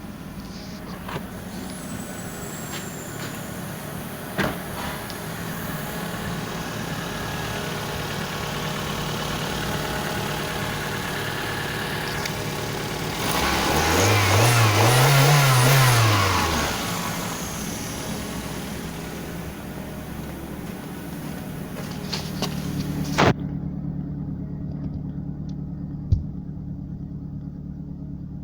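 Toyota 3S-FE 2.0-litre four-cylinder engine idling steadily, revved once to medium revs about halfway through, then falling back to idle. A few sharp clicks sound over it.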